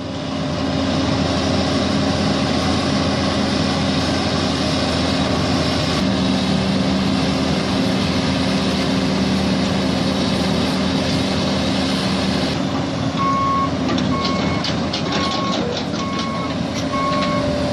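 Excavator diesel engine running hard and steady under load. About two-thirds of the way in, a backup alarm starts beeping about once a second, and sharp knocks come in alongside it.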